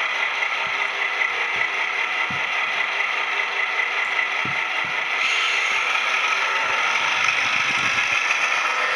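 HO-scale model passenger train running on its track: a steady mechanical hiss and whir with scattered clicks of the wheels over the rails, mixed with the sound-decoder diesel engine sounds of its Athearn FP7 and F7B locomotives. It gets a little louder about five seconds in.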